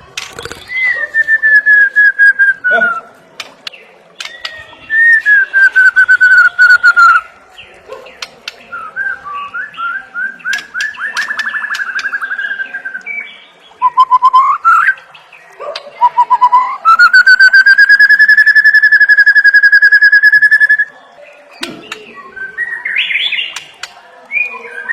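White-rumped shama (murai batu) singing: long clear whistled notes that slide slightly downward, a quick trill, short rising upswept notes, then a long, rapidly pulsing note held for about four seconds.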